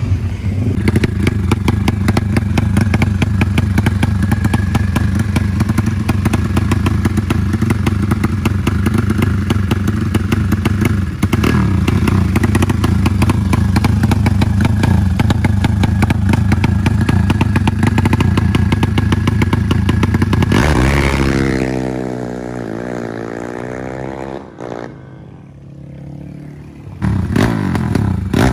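Drag-racing motorcycle engine with a modified cylinder head, running loud and steady with a fast rattling firing beat. About 21 seconds in the sound falls away with a wavering tone and is quieter for a couple of seconds, then the engine is loud again near the end.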